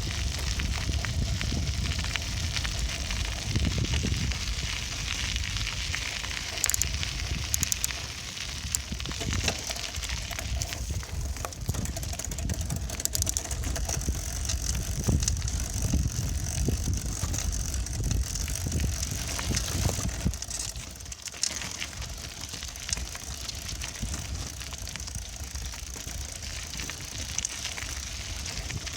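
Riding a bicycle: wind buffeting the microphone as a heavy, uneven rumble, over crackling tyre and road noise with scattered clicks and rattles. It eases off somewhat about two-thirds of the way through.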